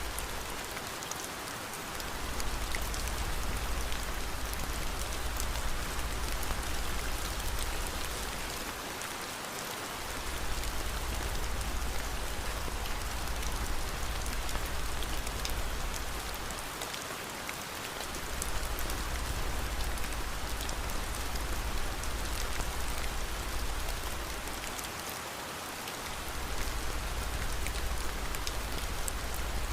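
Steady heavy rain with a low rumble underneath that fades out briefly about every eight seconds, and light crackling of a fireplace fire.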